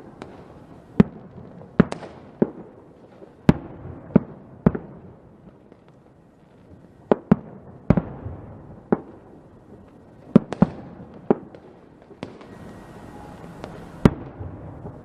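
Fireworks going off: about fifteen sharp bangs at irregular intervals, some in quick pairs, over a continuous rumble of more distant bursts. There is a brief lull about halfway through.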